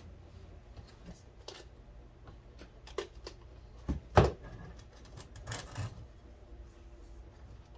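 Hand-handling noises: a scatter of small clicks and knocks, with a sharper knock about four seconds in and a short scrape soon after.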